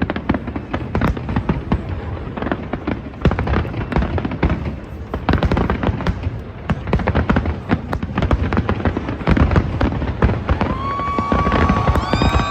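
Aerial fireworks going off in a dense, continuous barrage of bangs and crackles, with a steady whistling tone joining in near the end.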